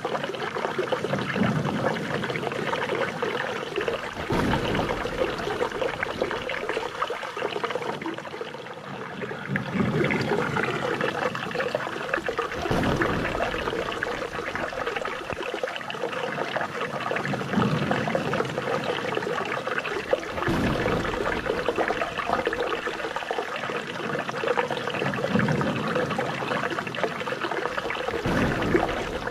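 Flowing water trickling and splashing steadily, with a deeper gush every few seconds.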